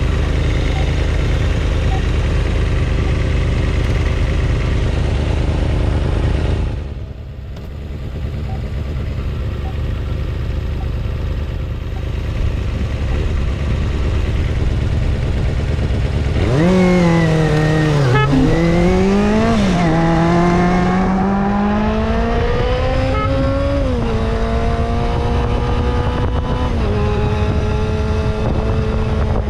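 Steady engine and road drone of a vehicle on the move, dipping briefly about a quarter of the way in. A little past halfway an engine revs up and down, then climbs through several gear changes, its pitch rising and dropping back with each shift before settling into a steadier cruise.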